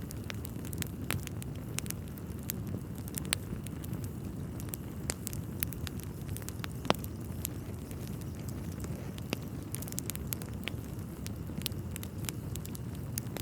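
Wood fire burning in a fireplace: a steady low rumble of flames with frequent sharp, irregular crackles and pops from the burning logs, one louder pop about seven seconds in.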